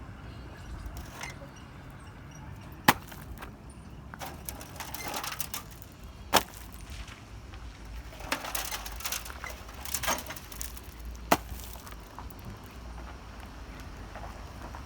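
Construction rubble being moved and spread: three sharp knocks spaced a few seconds apart, with bursts of scraping and clattering between them.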